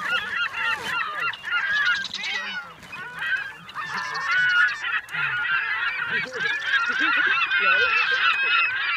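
A flock of geese honking, with many calls overlapping and a brief lull about three seconds in.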